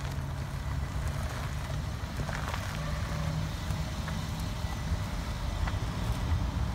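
Mercedes-Benz S550 4MATIC's twin-turbo V8 running at low speed as the sedan rolls past close by on asphalt: a steady low engine note whose pitch creeps up a little near the end.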